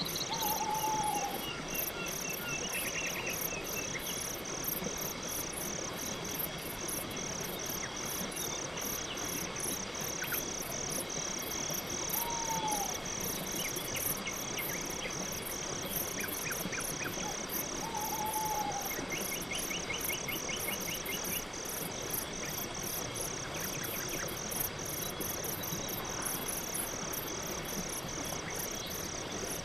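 Crickets chirping steadily in a night forest, a high pulse repeating about twice a second. Three times a short falling call sounds over it, and there are a few brief rapid ticking trills.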